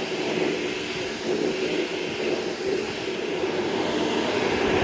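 Vacuum cleaner running steadily, a continuous whooshing motor hum.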